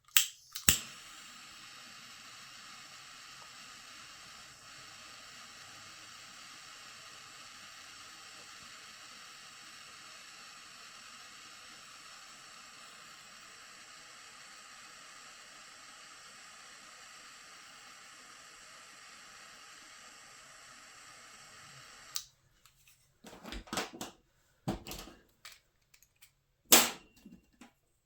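Handheld butane torch lit with a click and burning with a steady hiss for about twenty seconds, heating the motor mount screws to soften their Loctite thread-locker. The flame cuts off suddenly, followed by several light clicks and knocks of tools being handled.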